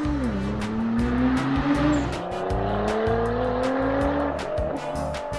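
A car engine accelerating, its pitch climbing steadily in two long rises, over music with a steady beat.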